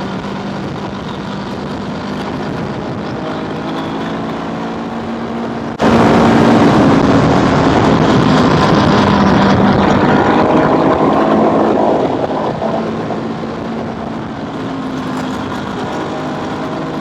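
Scooter engine running under way, heard through a helmet camera with wind rushing over the microphone. About six seconds in the wind and engine noise jump suddenly louder and stay up for about six seconds, then ease back.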